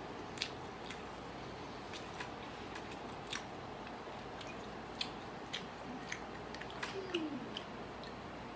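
A person chewing a mouthful of food, with scattered small wet clicks and smacks of the mouth.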